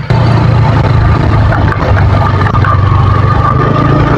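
Motorcycle engine running steadily while riding, a loud low drone with a thin steady whine above it; it cuts in suddenly just after the start.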